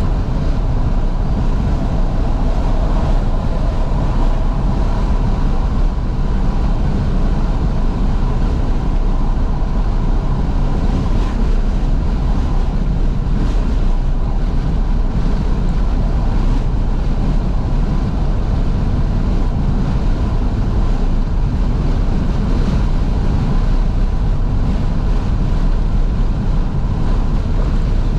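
Steady road and wind noise inside a moving 2012 Fiat 500S driven with all its windows open, wind rushing in over the microphone with the engine and tyres running underneath.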